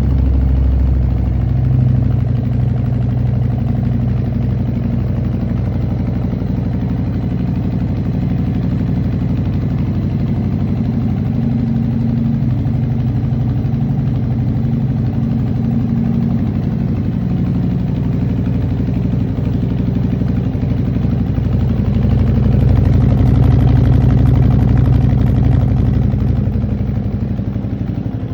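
Harley-Davidson Fat Bob 114's Milwaukee-Eight 114 V-twin idling through Vance & Hines Mini Grenades mufflers, just after a cold start. It runs steadily, with a slight rise in loudness for a few seconds past the middle.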